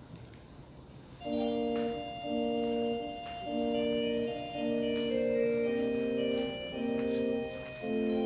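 An organ starts playing about a second in, holding sustained chords that change every second or so.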